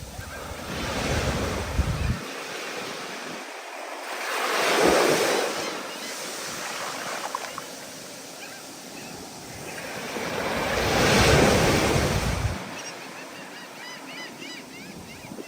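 Stormy ocean surf: waves break and wash in, surging three times about a second, five seconds and eleven seconds in. Wind buffets the microphone with a low rumble during the first and last surges.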